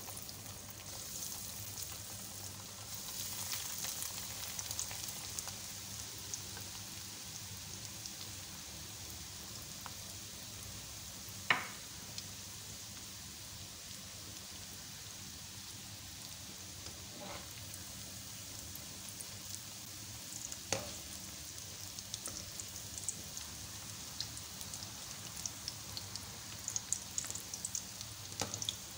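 Breadcrumbed chicken skewers frying in oil in a wok on low flame: a steady sizzle with light crackling that grows busier near the end. A few sharp knocks cut through, the loudest about eleven seconds in.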